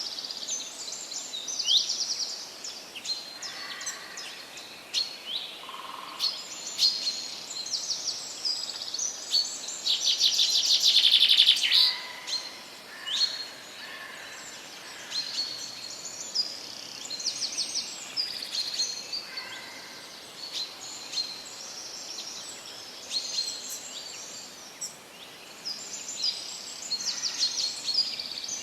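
Several birds singing in a forest, with short repeated chirps and trills over a steady faint hiss; one bird gives a loud, fast trill about ten seconds in, lasting about two seconds.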